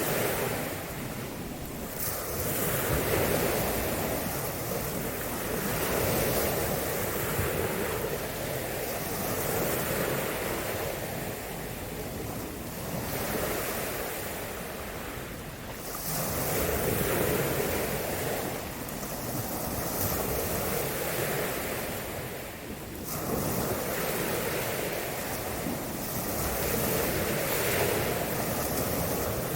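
Ocean surf washing in and out, the hiss swelling and falling every few seconds as waves break, with wind buffeting the microphone.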